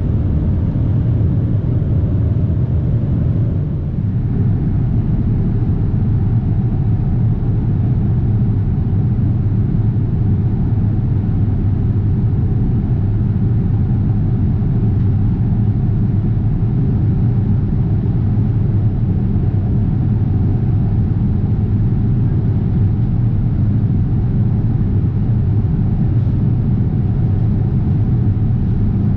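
Steady low rumble inside a Boeing 777-300ER's cabin in cruise: the noise of its GE90 engines and the airflow, with a slight dip about four seconds in.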